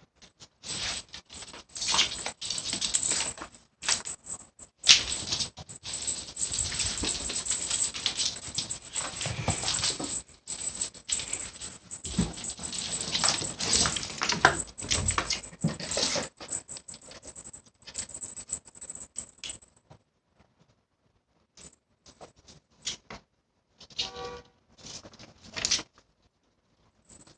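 Cats scuffling about, with a rapid patter of clicks and scrapes that thins out to scattered taps after about twenty seconds. There is a brief pitched cry about 24 seconds in.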